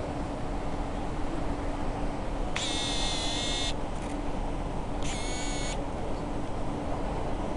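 Diesel passenger train running, heard from inside the carriage: a steady rumble of wheels and engine with a low hum. Two high-pitched tones cut in, one lasting about a second near the middle and a shorter one that rises at its start, about two seconds later.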